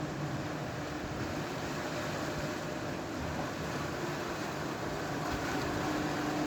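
A steady mechanical drone with a faint low hum under an even wash of noise.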